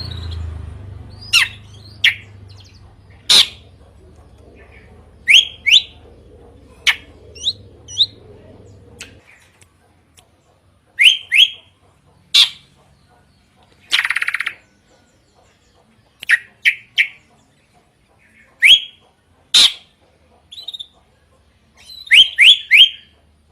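Drongo (srigunting) calling loudly: sharp whistled notes and chirps, many rising quickly and coming in quick pairs or threes, with one harsher buzzy call about halfway through.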